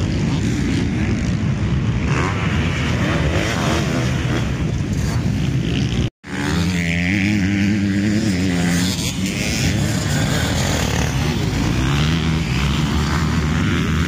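Motocross bike engines running hard and revving, rising and falling in pitch. The sound cuts out for an instant about six seconds in.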